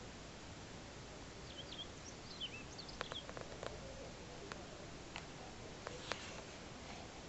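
Small birds giving short, high chirping calls, several of them from about a second and a half in, with a few sharp clicks among them, over a faint steady hiss.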